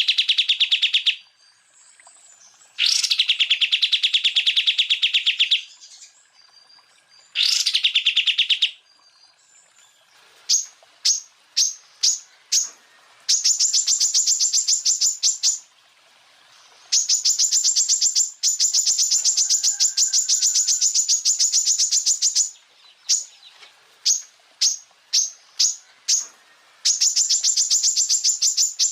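Greater green leafbird (cucak ijo) singing rapid 'tembakan' trills in phrases of one to several seconds. The first three trills are lower-pitched; from about ten seconds in come quick single high notes and longer, higher rapid trills.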